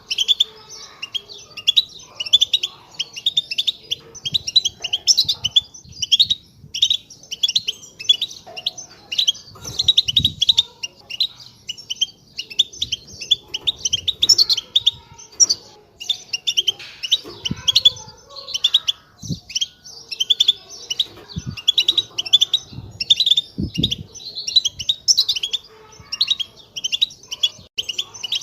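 European goldfinch chattering and twittering in a rapid, unbroken stream of short, high chirps, with a few soft low thumps now and then.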